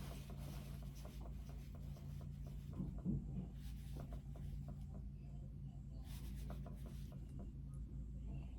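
Quiet handling of a perfume bottle: light rubbing and small taps over a steady low hum, with a short spray hiss about six seconds in.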